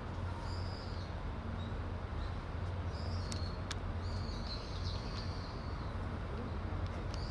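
Small birds chirping in several short, high calls over a steady low hum and background noise.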